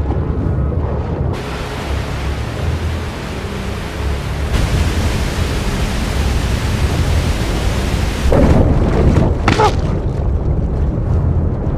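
Waterfall water rushing and crashing in a steady roar with a deep rumble beneath. It grows fuller about a second and a half in and again about four and a half seconds in, with a louder, rougher surge around eight to nine and a half seconds in.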